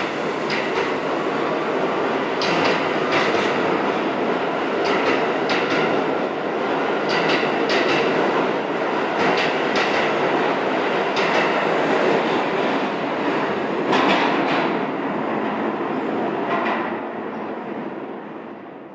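Pullman-Standard R46 subway train running through the station, with steady rumbling and pairs of wheel clacks over rail joints about every two seconds. The sound fades away near the end.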